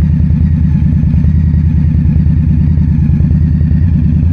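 Motorcycle engine running steadily at an even pitch, with a rapid low pulsing and no revving.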